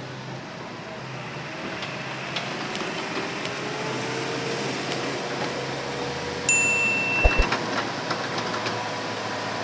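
Hitachi Zaxis excavator running under load, its engine and hydraulics rising in pitch. About six and a half seconds in, a short high electronic beep sounds, followed by a few sharp knocks.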